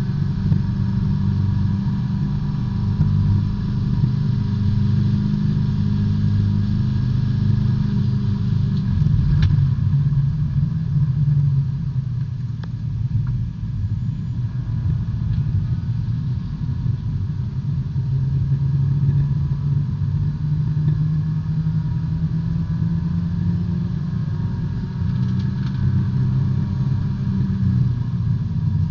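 B-Spec race car's small four-cylinder engine heard from inside the cockpit at racing speed, its note rising and falling as the driver accelerates, lifts and changes gear. There is a brief click about nine seconds in.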